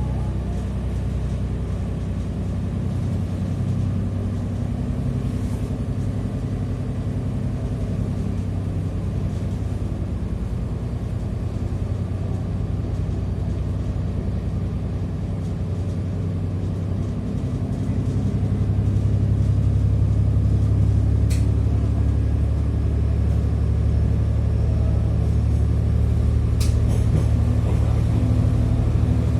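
YIA airport train running, heard from inside the carriage: a steady low rumble of the running gear and wheels on the rails. It grows louder about two-thirds of the way through as the train picks up speed. Two short sharp clicks come near the end.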